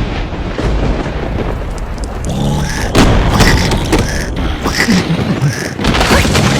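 Cartoon soundtrack of heavy rain with a booming thunder-like rumble, and a brief squeaky cartoon voice about two and a half seconds in.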